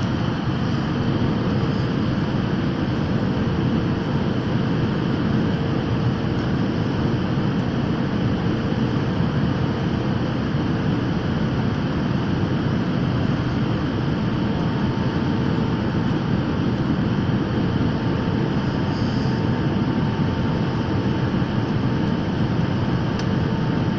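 Steady drone of an airliner's engines and rushing air heard from inside the cabin in flight, an even deep roar with a faint steady hum over it.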